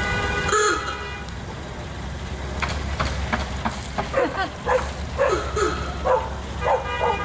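A dog barks several times, about two barks a second, in the second half, over a steady low drone.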